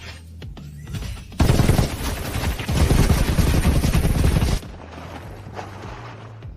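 Rapid automatic gunfire sound effect, a dense rattle of shots lasting about three seconds from just over a second in and cutting off abruptly, over background music.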